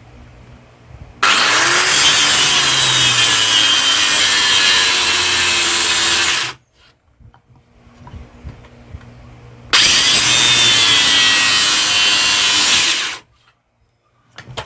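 A power tool grinding or sanding against the axe in two long, loud passes, each a few seconds long and cutting off sharply.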